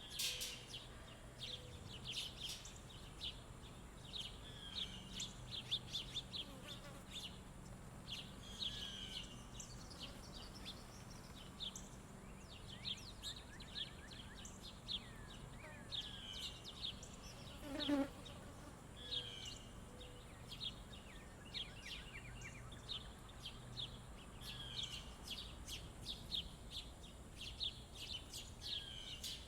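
Small songbirds at a feeder chirping and calling repeatedly, with a low buzz underneath and one brief louder sweep about eighteen seconds in.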